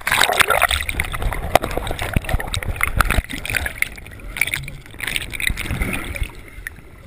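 River water splashing and gurgling close to the microphone, starting suddenly and loudly, with many sharp clicks and a low rumble that ease off toward the end.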